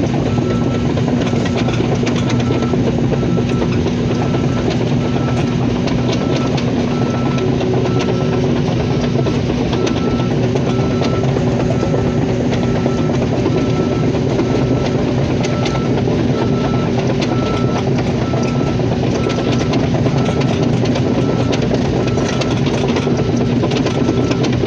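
Long-arm tracked excavator travelling, its diesel engine running steadily under the clatter of the tracks, with a travel alarm beeping evenly about every 0.7 seconds.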